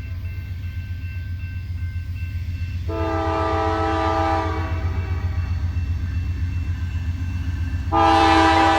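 An approaching train: a steady low rumble that grows louder, with the locomotive's multi-note horn sounding twice, a blast of under two seconds about three seconds in and a louder one starting near the end.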